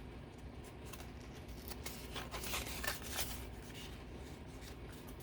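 Paper being handled on a craft table, soft rustles and scrapes with a cluster of short scratchy strokes about two to three seconds in.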